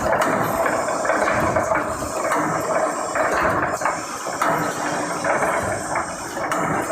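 Brick force mesh welding machine running, a continuous mechanical noise that swells and eases in a repeating pattern as it works.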